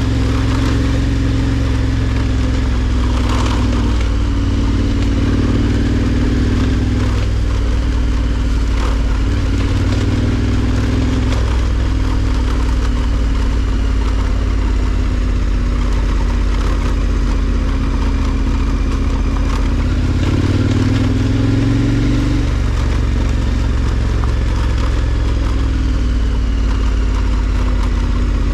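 KTM 1290 Super Adventure R's V-twin engine running steadily while riding a dirt track, its pitch shifting a little with the throttle and rising briefly about twenty seconds in.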